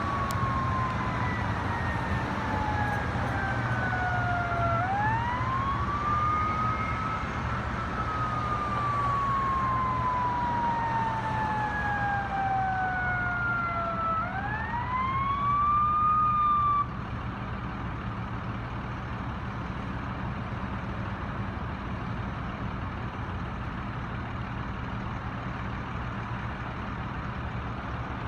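Emergency vehicle siren wailing in long, slow falling sweeps that snap back up in pitch, then cutting off suddenly about two-thirds of the way through. A heavy truck engine runs steadily underneath and carries on after the siren stops.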